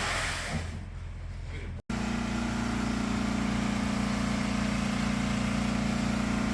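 An engine running steadily at constant speed, a low even hum, beginning abruptly about two seconds in. Before it there is a short stretch of noisy outdoor hiss.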